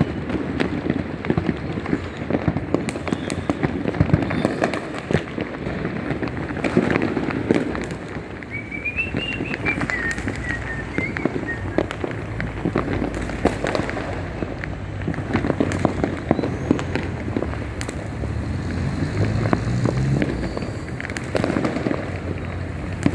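Many fireworks and firecrackers going off near and far in a continuous barrage of bangs and crackling. A brief wavering whistle comes about nine seconds in.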